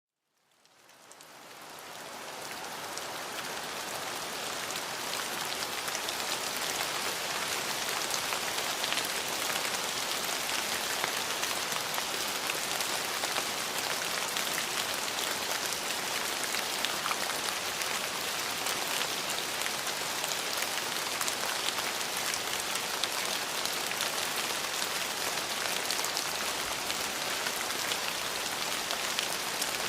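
Steady rain falling on a surface, a dense patter of drops that fades in over the first few seconds and then holds even.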